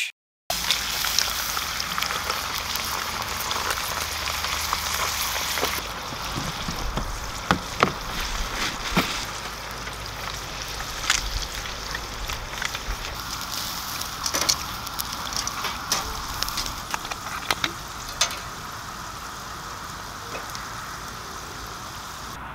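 Wood campfire crackling, with irregular sharp pops over a steady hiss. The pops thin out and the sound quietens near the end.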